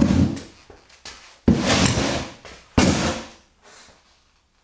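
Large wooden storage bin frame built from 2x3 and 2x4 lumber being lowered and knocking against the garage floor: three heavy knocks about a second and a half apart, each trailing off.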